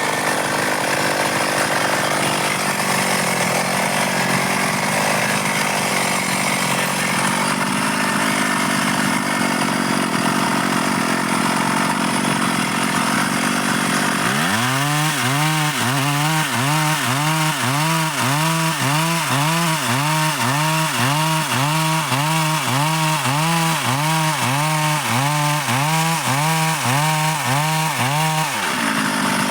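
Stihl MS 382 two-stroke chainsaw running at high revs while cutting dry wood. It runs steady at first, then from about halfway its pitch rises and falls about twice a second until near the end.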